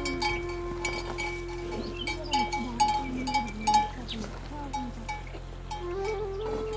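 Bells on grazing livestock clinking irregularly, with short animal calls. A steady held tone runs under the first half, and another starts near the end.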